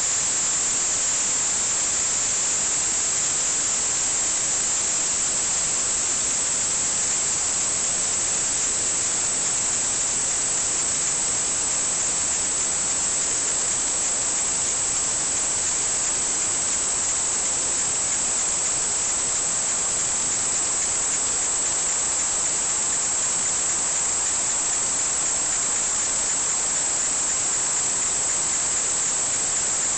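Steady, even hiss with no change, brightest in its high, thin top end.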